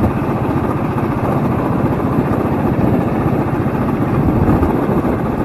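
Royal Enfield Thunderbird 350X's single-cylinder engine running steadily as the motorcycle is ridden.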